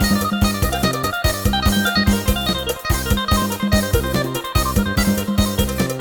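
Yamaha PSR-1000 arranger keyboard playing a Thai lai hae procession-style instrumental: a busy plucked-string-like lead melody over a steady, fast drum beat.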